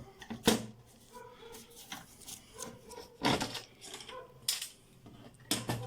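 Screwdriver and hands working on a TV's circuit boards: scraping and rubbing broken by about four sharp clicks and knocks, the loudest about half a second in.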